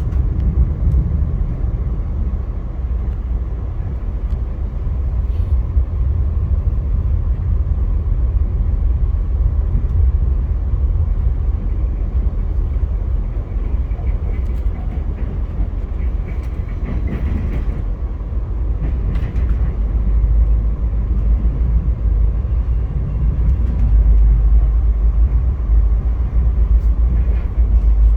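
Via Rail passenger train running on the tracks: a steady low rumble with a few faint clicks, and a faint higher squeal briefly around the middle.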